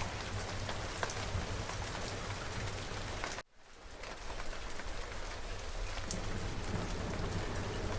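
Steady rain falling, a dense even patter with a low rumble beneath it. About three and a half seconds in it cuts out abruptly for a moment, then swells back in.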